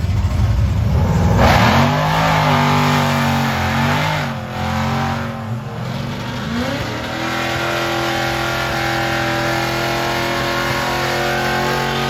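Car engine revving hard, with a surge about a second and a half in, then climbing about six seconds in and held at a steady high rev.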